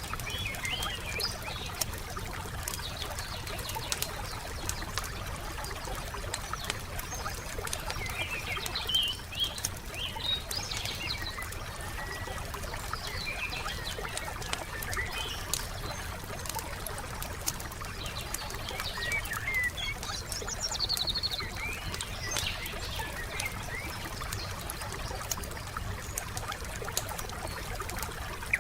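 Campfire crackling in a steady run of small pops, with birds chirping now and then over a constant low background rush.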